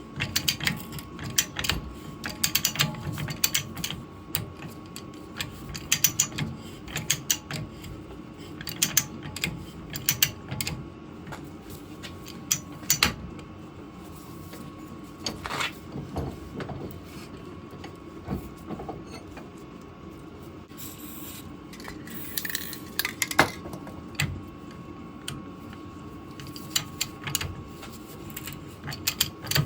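Clicking of a ratchet pipe-threading die handle worked in short, irregular bursts, with knocks of metal on metal, as a thread is cut on the end of a steel water pipe held in a vice. A single sharp knock, the loudest sound, comes past the middle.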